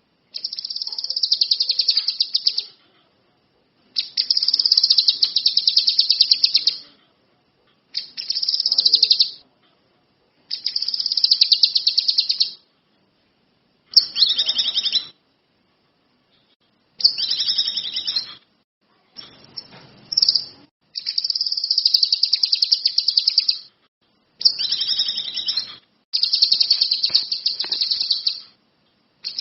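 Kinoi songbird singing a long run of high-pitched, rapidly trilled phrases, each lasting one to three seconds, about ten in a row with short silent gaps between them. It is in full, steady song.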